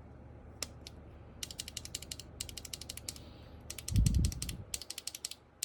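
Typing on an MK870 mechanical keyboard with tactile Sky Panda switches over a thick silicone foam: two quick runs of key clicks, with one low thud about four seconds in. The silicone foam damps the tactile switches' sound considerably.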